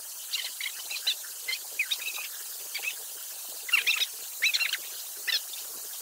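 Birds chirping in short, scattered calls, loudest a little past halfway, over the steady rush of a small waterfall.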